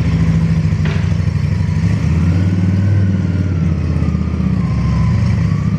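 A motorcycle engine running steadily and loud, its pitch sagging and recovering a little midway.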